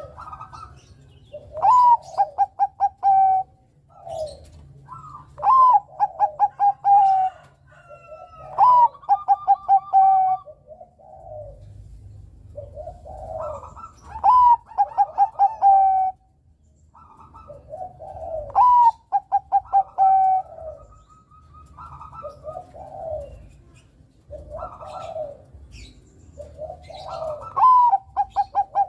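Bangkok-type zebra dove (perkutut) singing: about six loud phrases, each a rising note followed by a quick stuttering run of coos, with softer short coos in between.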